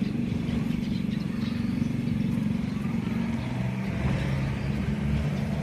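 An engine running steadily with a low hum, its note shifting lower about three and a half seconds in.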